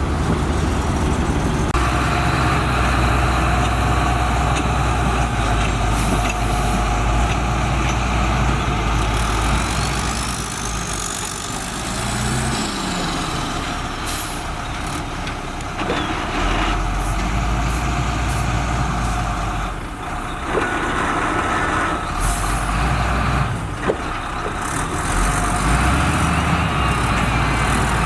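Heavy diesel road-building machinery running steadily under load, with a few short sharp knocks in the second half.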